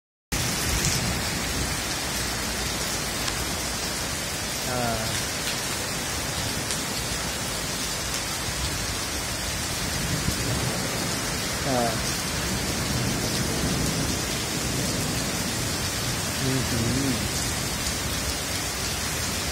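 Heavy rain pouring steadily onto paved ground: a dense, even hiss.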